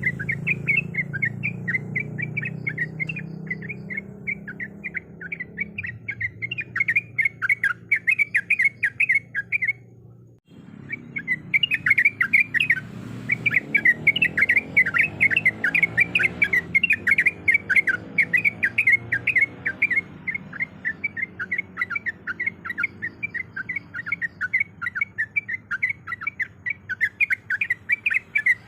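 Yellow-vented bulbul (trucuk) chattering in a rapid, continuous run of short chirps, broken by a brief gap about ten seconds in. It is the kind of call used as a lure to set captive bulbuls singing.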